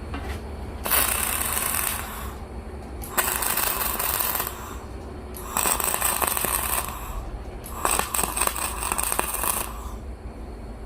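Electric arc welding on steel plate: four short crackling, hissing welds of about a second each, with brief pauses between them, as tack welds are laid on a log splitter's retaining frame.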